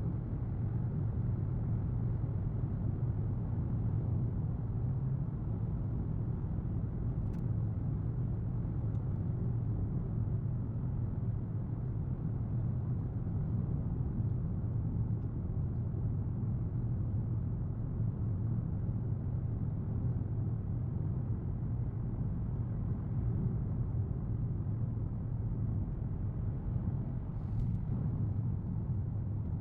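Steady road and engine rumble heard from inside a car's cabin while driving at speed, with a couple of faint ticks.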